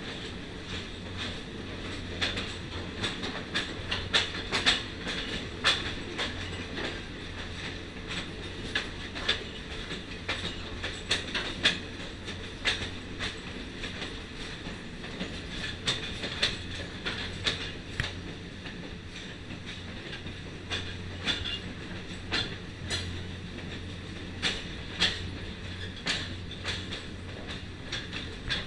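Passenger coach of an excursion train rolling along the track: a steady low rumble with irregular sharp clicks from the wheels on the rails.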